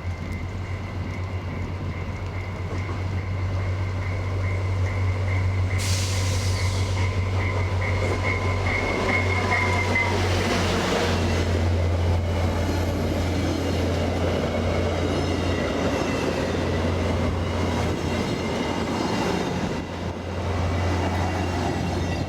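VIA passenger train led by an EMD F40PH-2 diesel locomotive rolling through the station with its coaches, a steady low rumble throughout. A high, steady squeal from the wheels or brakes sinks slightly in pitch and stops about ten seconds in, and a sharp hiss starts about six seconds in.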